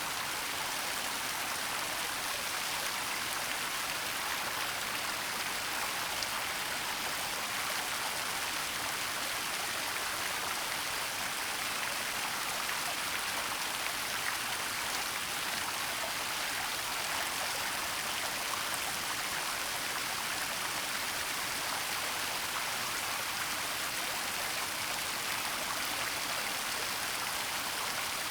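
Waterfall's steady rush of falling water, an even hiss with no breaks or distinct drops, weighted toward the high end.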